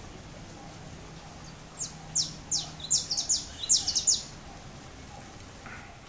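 A bird giving a quick series of about ten sharp, high chirps, each sliding downward in pitch, packed into roughly two seconds near the middle.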